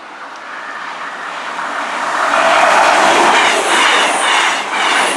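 CrossCountry Class 221 Super Voyager diesel multiple unit passing close at speed. Its noise rises over the first two seconds or so, then stays loud, with a rhythmic clickety-clack from the wheels.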